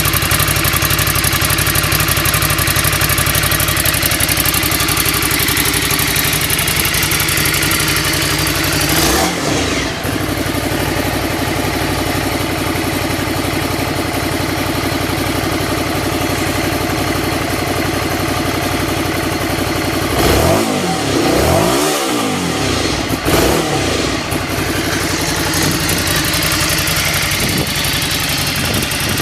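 Ducati Scrambler's L-twin engine idling steadily through its exhaust, revved briefly about a third of the way in and blipped twice more about two-thirds through, the pitch rising and falling each time.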